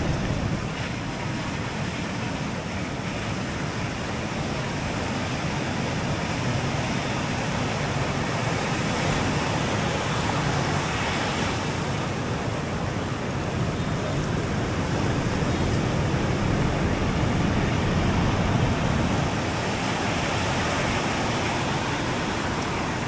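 Sea surf breaking on the beach: a continuous rush of noise that slowly swells and eases.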